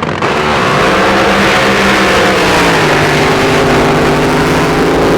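Drag boat's racing engine running at high power, loud, its pitch rising and then dropping about three seconds in before holding steady.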